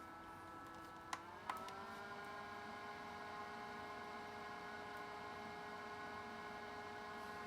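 Small electric motor of a USB mini fan whirring with a steady whine. Two clicks come about a second in, then the whine steps up in pitch and holds there: the fan has been switched to a higher speed.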